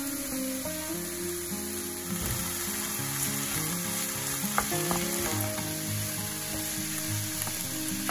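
Diced raw chicken sizzling in hot oil in a frying pan with chopped red pepper and onion, being stirred with a wooden spatula. There is one sharp knock about four and a half seconds in, over soft background music.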